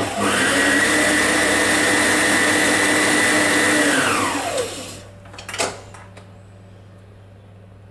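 Electric blender blending strawberries with icing sugar: the motor spins up to a steady high whine, runs for about four seconds, then winds down. A short knock follows just after it stops.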